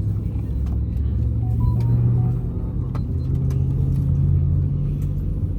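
Steady low rumble of an Airbus A320neo heard from inside the passenger cabin during pushback and engine start.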